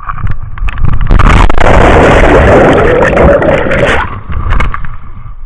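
Heavy rush of whitewater and splashing right on the microphone, about three seconds long and cutting off sharply, with scattered knocks and splashes before and after.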